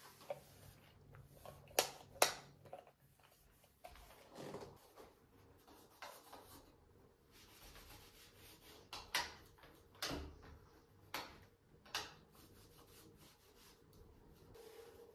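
Handling noises: a scatter of short sharp clicks and knocks, several seconds apart, with some soft rubbing in between, in a small room.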